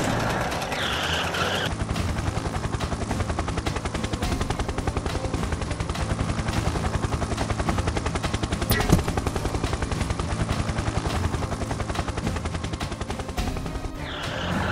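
Cartoon helicopter sound effect: rotor blades making a rapid, even chopping that sets in after about two seconds and stops near the end. A single sharp knock comes about nine seconds in.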